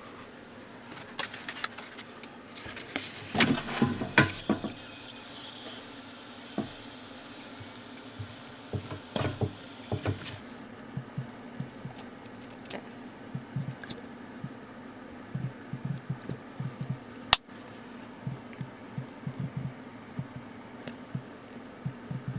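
A hiss like running water starts about three seconds in and stops abruptly about ten seconds in. Scattered clicks and knocks of handling sound throughout, with one sharp click later on.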